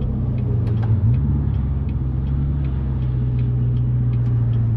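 Chevrolet C7 Corvette's 6.2L V8 running steadily through an MBRP axle-back exhaust with the active valves open, heard from inside the cabin at highway speed. The engine note briefly dips and jumps about a second in, as with a downshift. Faint regular ticking, about three a second, runs under it.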